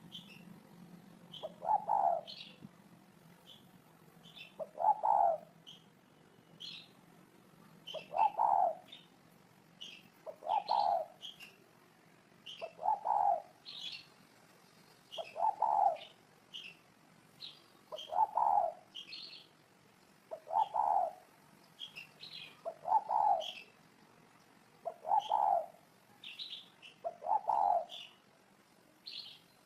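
Spotted dove cooing, a low call repeated steadily about every two and a half seconds, with short high chirps from a smaller bird scattered between the coos.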